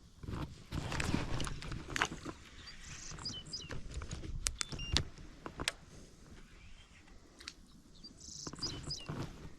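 Gear being handled in a kayak: irregular rustling and scraping with a few sharp clicks near the middle, and birds chirping in the background.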